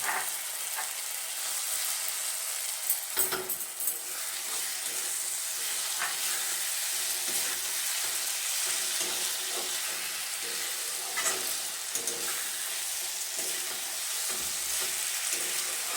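Onion-ginger-garlic masala with freshly added chopped tomatoes sizzling steadily in hot mustard oil in a kadhai. A spatula stirs it, with occasional scrapes and clicks against the pan.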